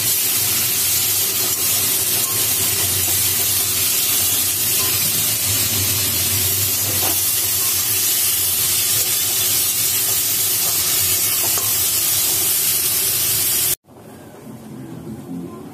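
Chopped onion and tomato sizzling steadily in hot oil in a metal kadai as they are stirred with a spatula. The sizzle cuts off suddenly near the end.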